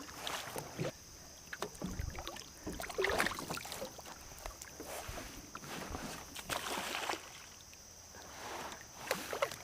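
Kayak on the water: irregular paddle splashes, drips and light knocks against the hull.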